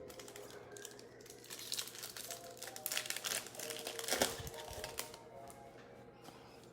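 Trading-card pack wrapper crinkling and tearing as a pack is opened, a dense run of crackly rustles through the middle few seconds, with faint background music underneath.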